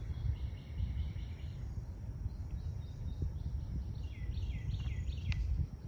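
Birds calling: a quick run of repeated high notes near the start, then about five downward-sliding chirps near the end, over a steady low rumble.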